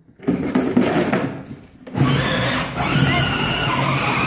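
The Gator's motor whining as it is driven, with rattling at first; about two seconds in, a steady hum with a higher whine above it sets in and holds.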